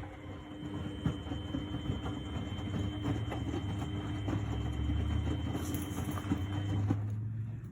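Miele Novotronic W828 front-loading washing machine turning its drum in the wash: a steady motor hum and whine, with soft knocks and sloshing of the wet laundry. The motor whine stops about seven seconds in, as the drum pauses between turns.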